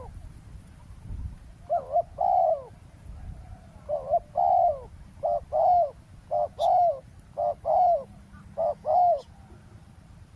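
Spotted dove cooing: about six phrases, each a short coo followed by a longer, drawn-out coo, repeated roughly every second or so.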